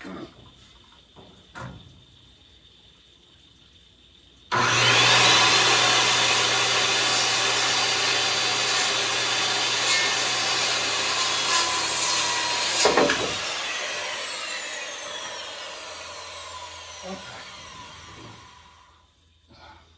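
Corded power saw starting about four and a half seconds in and running through a cut in wooden lumber, with a thump near the end of the cut. The saw is then let go and spins down with a falling whine that fades out. Two light knocks come before it starts.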